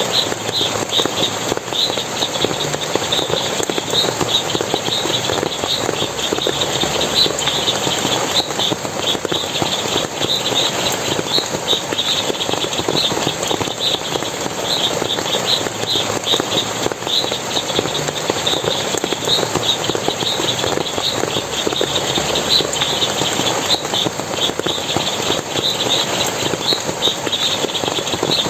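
Forest water splashing and running steadily, with short high chirps repeating two or three times a second over it.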